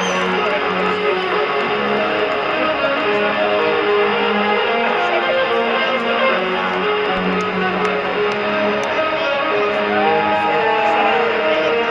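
Heavy metal band playing live, with electric guitar to the fore, at a steady loud level.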